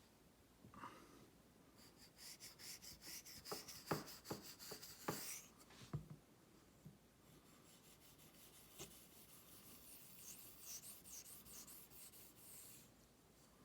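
Quiet scraping of a straight razor's blade being drawn in repeated strokes across a wet honing waterstone, with a few light knocks as the razor is turned over on the stone.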